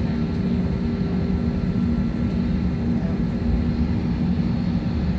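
Steady low drone of an Airbus A321 airliner heard from inside the aircraft, its jet engines running at low power before takeoff, with a faint steady hum over it.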